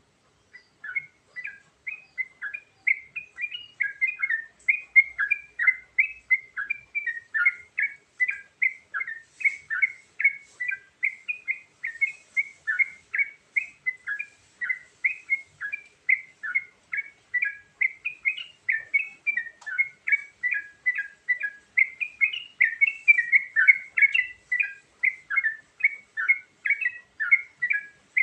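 Yellow-vented bulbul (trucukan) singing an unbroken string of short, quick notes that swing up and down, about three a second, starting about a second in.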